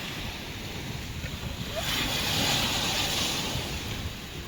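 Sea waves washing on the shore, a steady rush of surf that swells louder about halfway through.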